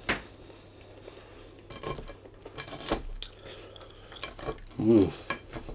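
A fork clinking and scraping against a dish of fries, in scattered short knocks. About five seconds in, a brief vocal sound from the eater.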